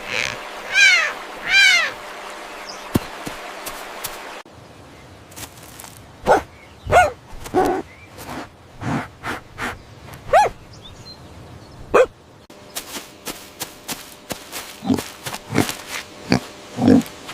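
A series of short animal calls, one after another, across several spliced recordings that change abruptly about four seconds in and again near the middle.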